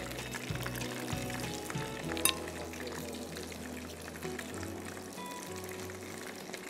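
Chicken tikka boti pieces deep-frying in hot oil in a wok, a steady sizzle and crackle. A single sharp click about two seconds in.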